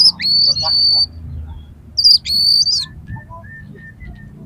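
Oriental magpie-robin (kacer) singing: two loud phrases, each a held high whistle with sharp notes at its edges, about a second apart, followed by softer short notes.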